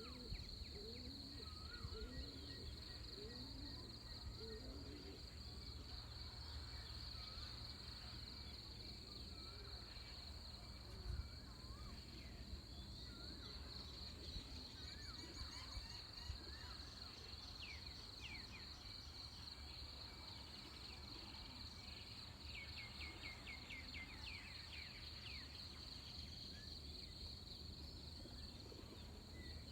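Pre-dawn countryside ambience: a steady high-pitched insect trill, with scattered bird calls and chirps, including a run of quick repeated chirps about two thirds of the way in, over a low steady rumble of wind.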